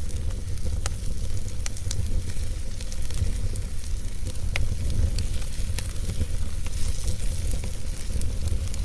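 Fire in a fireplace crackling: a steady hiss and low rumble with sharp pops at irregular moments, several in a few seconds.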